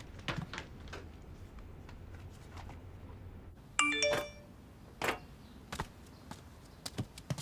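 A short two-note electronic chime, ding-dong, about four seconds in, among a few soft clicks and taps.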